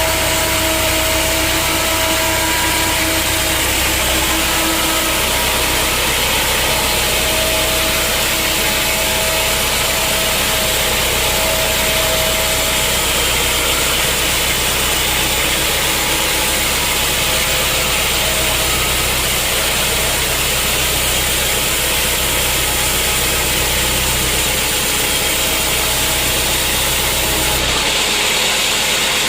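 Sawmill machinery running steadily, a loud mechanical hum and noise with faint whining tones that fade out in the first half; the sound changes abruptly near the end.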